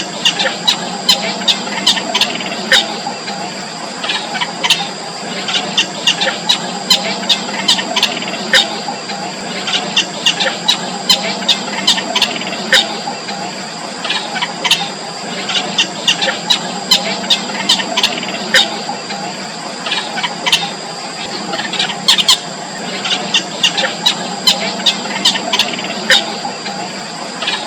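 Four-day-old nestling birds squeaking, short high begging calls coming in frequent clusters, over a steady high-pitched whine.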